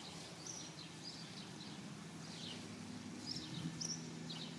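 Small birds chirping: scattered short, high notes, several dropping in pitch, over a faint steady low hum.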